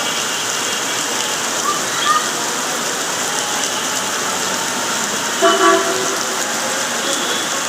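Steady heavy rain falling as a continuous hiss. About five and a half seconds in, a brief pitched sound rises above it.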